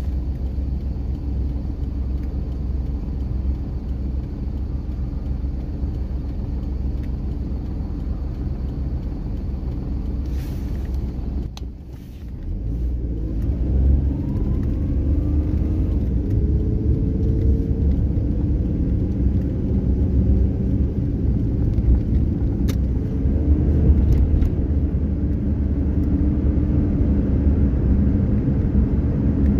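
A car being driven, with a steady low engine and road rumble. It dips briefly about twelve seconds in, then the engine note rises as the car picks up speed again.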